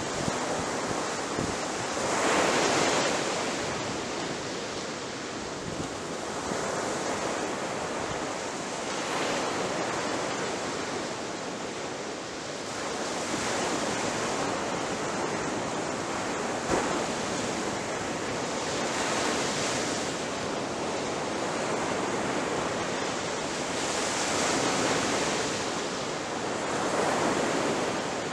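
Ocean waves breaking on a shore, a continuous wash of surf that swells louder as each wave breaks every few seconds.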